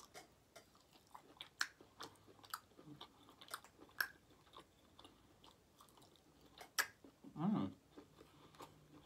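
Close-miked chewing of smoked beef brisket, with many wet mouth clicks and smacks. A brief voiced hum comes about three-quarters of the way through.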